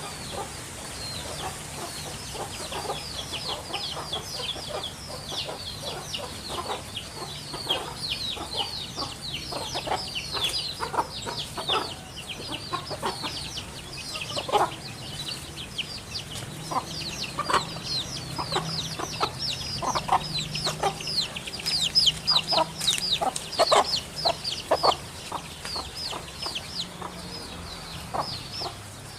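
Many birds calling at once: dense, overlapping high chirps that drop in pitch, with shorter, lower calls mixed in. They are busiest about two-thirds of the way through.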